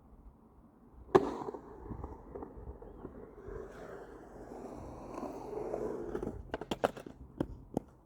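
Skateboard coming down with one sharp smack about a second in, then its wheels rolling or grinding for about five seconds. Several quick clacks of the board follow near the end.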